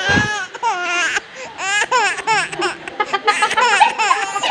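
Baby laughing and fussing in high-pitched, changing cries. There is a short low thump right at the start.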